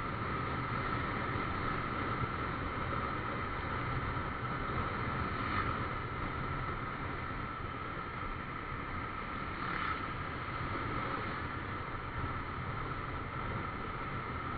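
Motorcycle riding at a steady pace: a constant engine drone mixed with wind rushing over the microphone.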